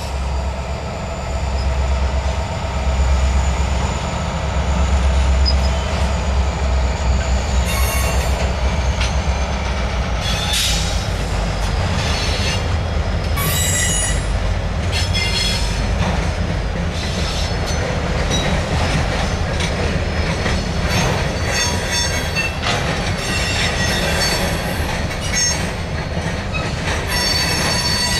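BNSF diesel locomotives and freight cars rolling through a rail yard: a deep engine rumble for the first several seconds, then repeated high-pitched squeals of steel wheels against the rails as the cars roll by, coming thicker near the end.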